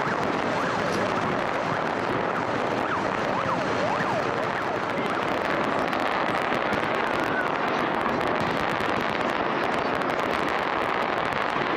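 Aerial fireworks display: a dense, steady crackle of many shells bursting at once, with a few short whistles in the first few seconds.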